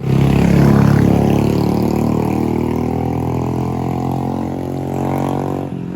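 A motor vehicle engine running loud and close, holding a fairly steady pitch that shifts slightly near the end.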